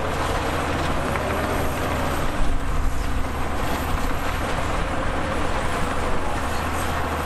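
Heavy diesel earthmoving machinery running steadily, a constant low engine drone with broad mechanical noise over it, and a brief louder moment about two and a half seconds in.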